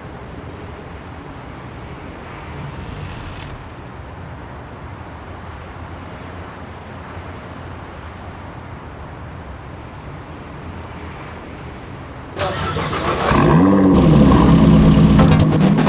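BMW car engine running low and quiet for most of the time, then revved hard about twelve seconds in, its pitch climbing and then holding high and loud.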